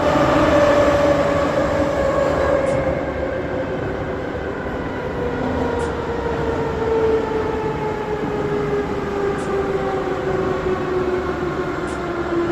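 Moscow Metro 81-717.5M/81-714.5M 'Nomernoy' train heard from inside the car, running with a rumble and a motor whine that falls steadily in pitch as the train slows for the next station.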